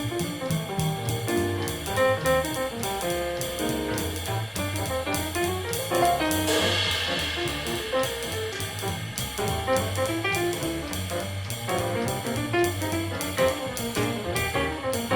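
Jazz with a drum kit, with bass and piano notes underneath. A handmade 20-inch Chris Kamin ride cymbal is struck again and again in a steady pattern.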